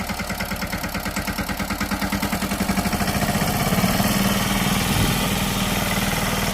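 Mini tractor engine running with an even, rapid chugging of about ten beats a second. It grows louder about halfway through.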